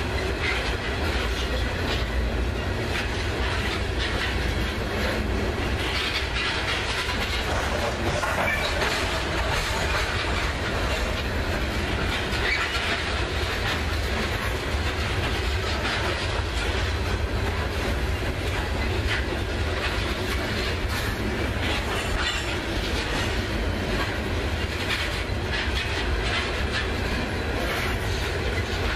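Loaded coal hopper cars of a freight train rolling past: a steady rumble and rattle of steel wheels on the rails, with scattered clacks.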